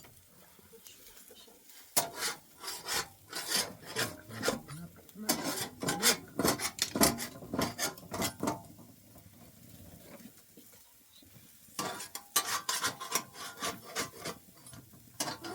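Hand scraping, a run of short rasping strokes several a second. They stop for a few seconds in the middle, then start again.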